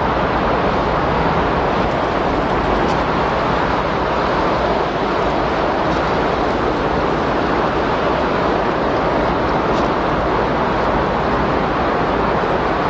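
Windstorm: strong wind blowing as a steady, dense rush of noise with a low rumble underneath, without gaps or gusts standing out.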